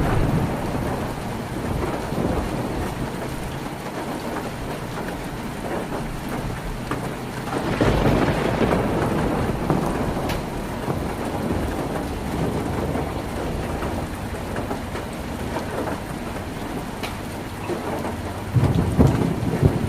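Heavy rain drumming steadily on a tin roof. Low rumbles of thunder swell up twice, about eight seconds in and again near the end.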